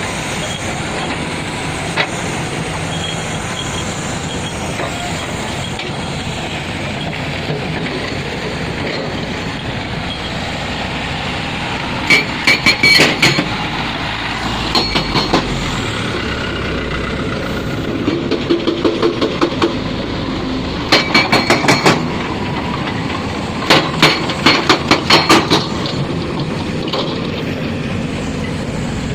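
Heavy construction machinery running steadily, with repeated short runs of rapid metallic clanking, about five strikes a second for a second or two at a time, in the second half.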